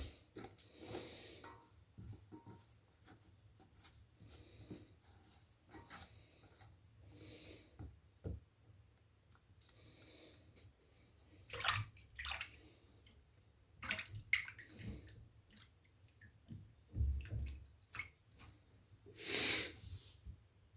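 Water splashing and dripping in a basin in short, irregular bursts, the sound of hands working in the water, with a few louder splashes in the second half.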